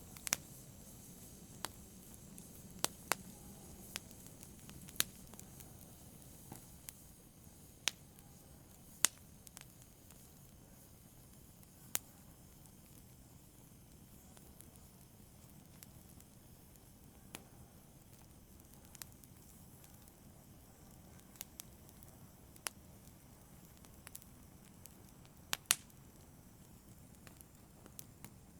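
Fire crackling softly: sharp, irregular pops and snaps every second or so over a faint steady hiss, with a close double snap near the end.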